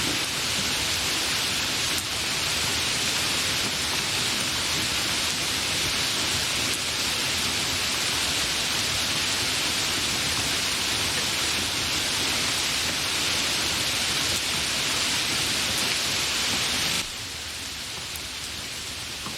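Steady, fairly heavy rain with no thunder, an even hiss. About 17 seconds in it drops suddenly to a quieter, duller rain.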